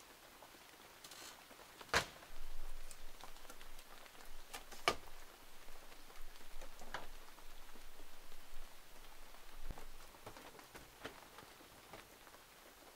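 Rain dripping in the forest: a light patter with scattered, irregular sharper drops, the loudest about two seconds in and just before five seconds.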